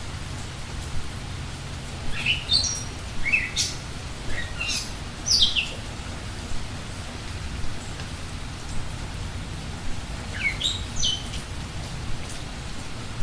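A songbird calling: a quick run of short, high chirping notes, several sliding downward in pitch, starting about two seconds in, then a shorter burst near the end, over a steady background hiss.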